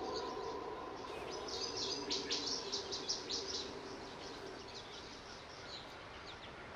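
Birds chirping in short, quick, irregular notes, busiest about two to three and a half seconds in, over a faint steady low hum.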